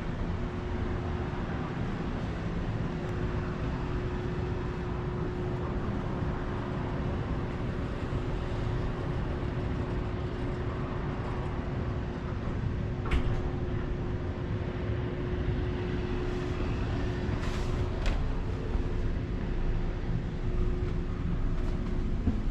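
Steady mechanical rumble with a constant low hum and a couple of faint clicks partway through.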